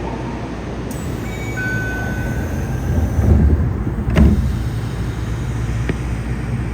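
Sliding passenger doors of a Yokohama subway 3000N train closing at a station: a click and a short steady tone, then a heavy thud a little over four seconds in as the doors shut, over the car's steady low rumble.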